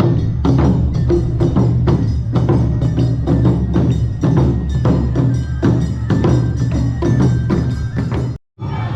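Awa Odori festival band music played live, with quick, rhythmic strikes of percussion and bell-like metal over sustained pitched tones. It cuts off abruptly for an instant near the end, then comes back.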